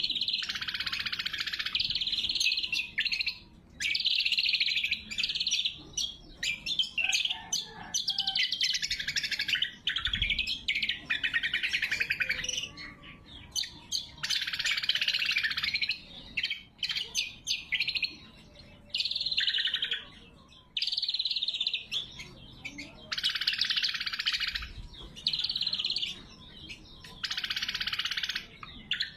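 Greater green leafbird (cucak kombo) singing: loud, sharp, high-pitched song phrases of a second or two each, packed with rapid notes and repeated with short pauses between them.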